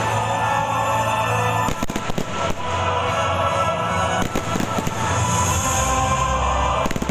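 Fireworks display bursting: several sharp bangs of aerial shells over continuous music.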